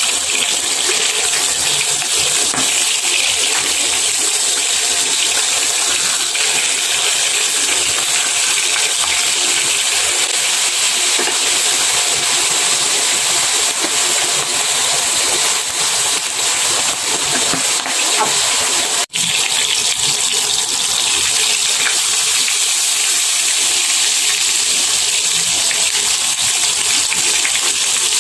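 Salmon steak sizzling as it pan-fries in hot oil: a steady, loud hiss, broken once by a brief gap about two-thirds of the way through.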